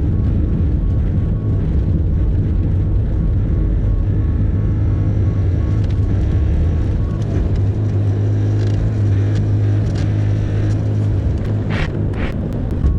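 Bobcat E50 mini excavator's diesel engine running steadily under work, with two brief rasping sounds near the end.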